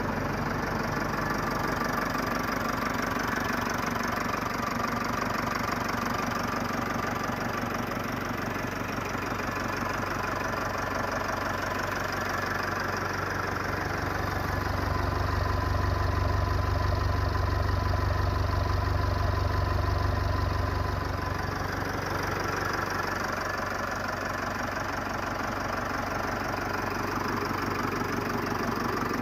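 Nuffield Universal DM4 tractor's diesel engine idling steadily, with a deeper, louder stretch a little past halfway before it settles back.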